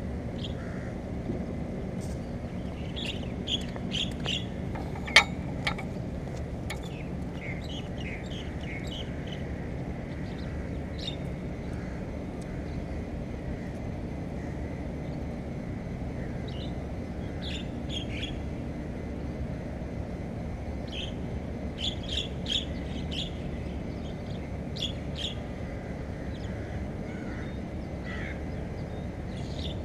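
Small birds chirping in short scattered clusters over a steady low rumble, with one sharp knock about five seconds in.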